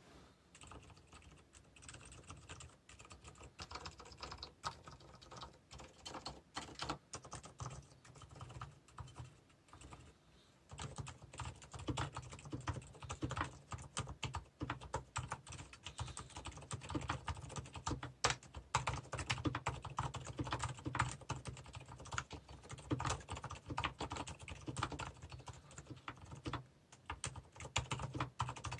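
Mechanical keyboard with tactile brown switches being typed on in quick, irregular keystrokes. The typing pauses briefly about ten seconds in, then continues louder, with more low thock in each keystroke.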